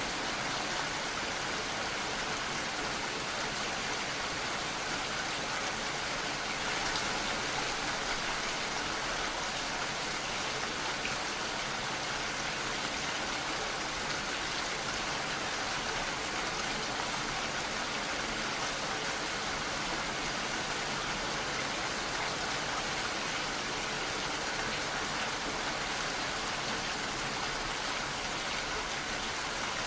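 Steady rain falling, an even hiss of drops with no distinct single drips or thunder.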